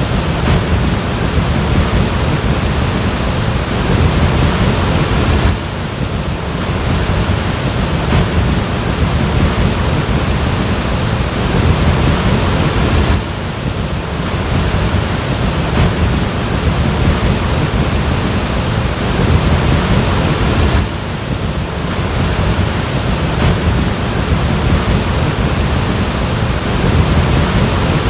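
Floodwater rushing: a loud, steady wash of noise, heaviest in the low range. It drops briefly three times, about every seven or eight seconds.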